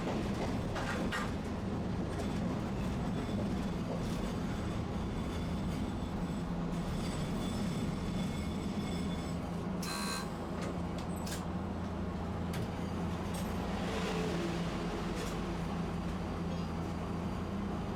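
Tosaden streetcar running: a steady low rumble and hum with scattered light clicks, and a brief sharp, higher sound about ten seconds in.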